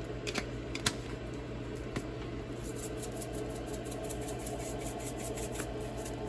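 A few light clicks and taps, then from about halfway a fast, steady rattle: a closed container of thinly sliced cucumbers in dressing being shaken to mix.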